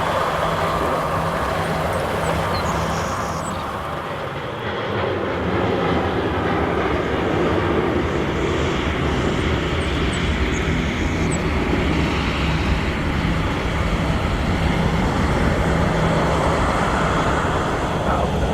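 Airliner engines running, a steady loud rumble that eases briefly about four seconds in, then builds again and holds.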